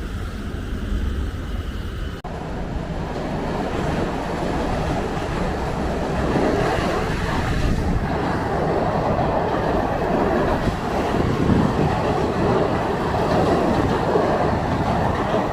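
KRL Commuterline electric commuter train passing on the track, a steady rolling noise that grows louder a few seconds in.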